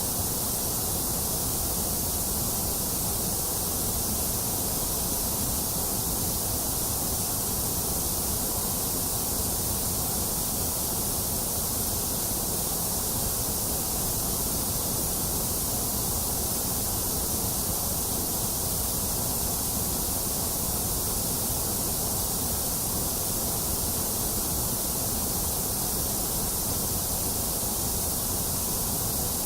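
Steady, unchanging white noise: a continuous hiss for soothing a baby to sleep, with no changes or breaks.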